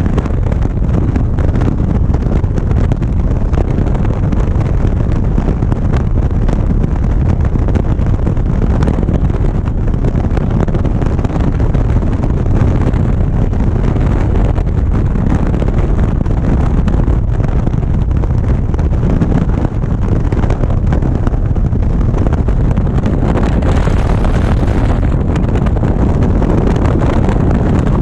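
Wind buffeting the camera microphone on a moving motorcycle, with engine and road noise underneath: a loud, steady rush.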